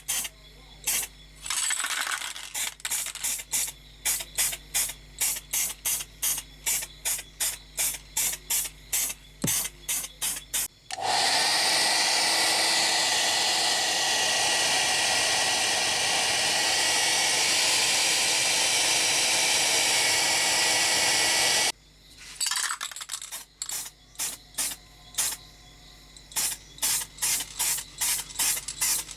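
Spray paint hissing out in a run of short, quick squirts, then in one continuous spray lasting about ten seconds, then in short squirts again.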